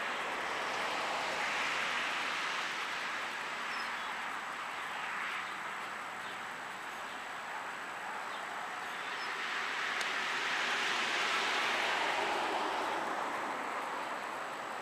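Wood fire burning with a steady hiss that swells and fades twice, with a few faint pops.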